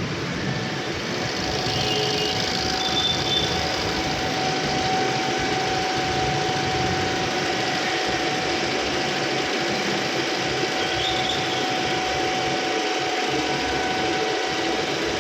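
Maruti Swift engine idling steadily during an engine carbon-cleaning service, with a steady thin whine that comes in about a second in.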